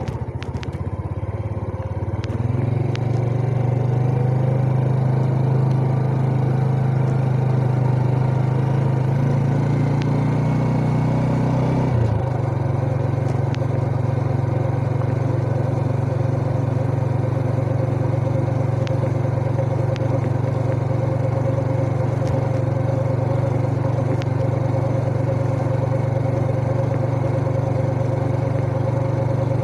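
Yamaha Jupiter Z Burhan's single-cylinder four-stroke engine running under way, heard from the rider's position. The note rises about two seconds in, shifts again around twelve seconds in, then holds steady.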